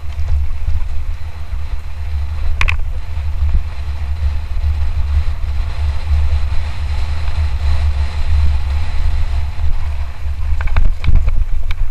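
Wind rumbling steadily on the microphone of a Lapierre Zesty 427 mountain bike riding fast downhill, with sharp clicks and rattles from the bike about three seconds in and again near the end.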